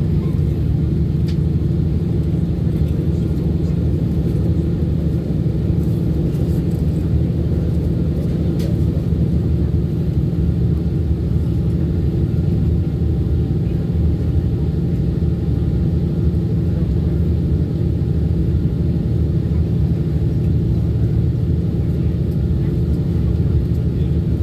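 Steady low rumble inside the passenger car of a moving Kiha 183 diesel railcar: engine and wheels on the track running at an even pace.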